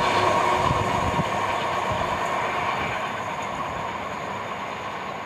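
Freight train of gypsum wagons rolling away along the track: a wheel-on-rail rumble with a couple of knocks over rail joints in the first second and a steady high ringing tone, fading gradually as it goes.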